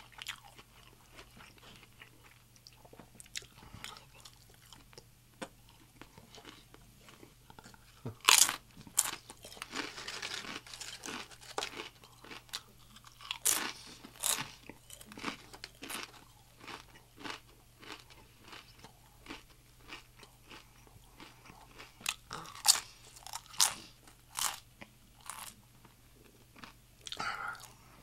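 Close-miked eating of a crisp-fried birria taco: chewing with loud, sharp crunches every few seconds and softer chewing between.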